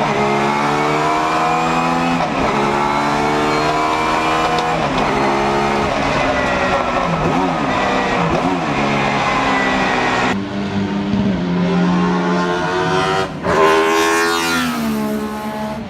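Alfa Romeo 155 V6 Ti DTM race car's high-revving V6 at racing speed, its pitch climbing through each gear and dropping sharply on the shifts, with a wavering stretch of quick rev changes in the middle. Near the end the revs rise, then fall away in one long slide.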